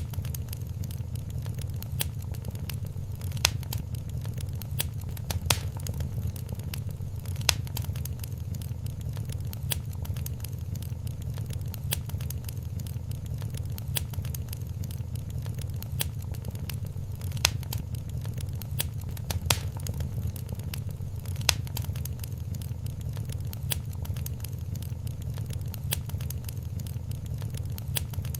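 Wood fire in a fireplace crackling, with frequent small snaps and an occasional louder pop over a steady low rumble.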